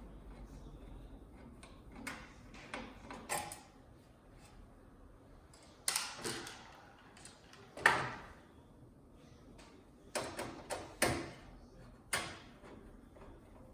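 Scattered clicks, knocks and scrapes of a flat-screen TV's casing and parts being handled during disassembly, with the sharpest knock about eight seconds in.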